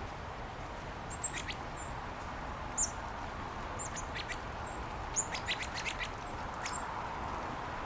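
Small songbirds chirping in short, high, scattered chirps over a steady background hiss, with a quick run of sharp clicks from about four to six seconds in.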